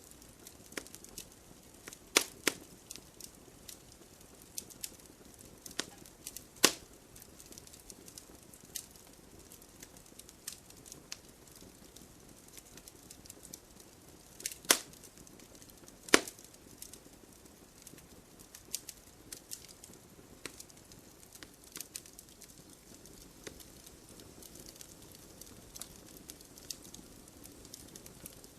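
Wood fire crackling: irregular small snaps and pops over a soft steady hiss, with a handful of sharper, louder pops spread through it.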